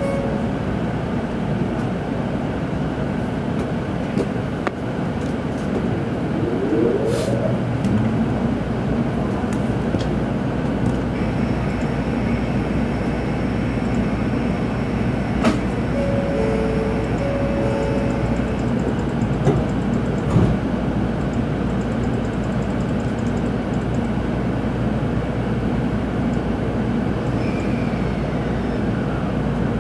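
Inside a Tokaido Shinkansen car pulling away from the station: a steady low rumble of the running train, with a rising whine about six to eight seconds in as it gathers speed. There is a sharp knock near the same moment.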